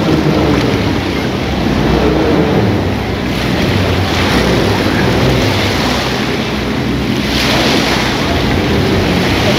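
Steady wash of sea waves and wind buffeting the microphone, with a continuous low rumble underneath.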